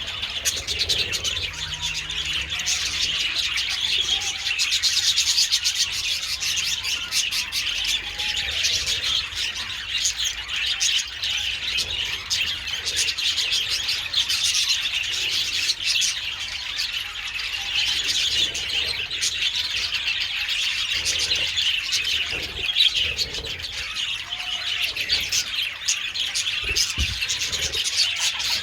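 A flock of budgerigars chattering and warbling together: a continuous dense mass of overlapping chirps and twitters.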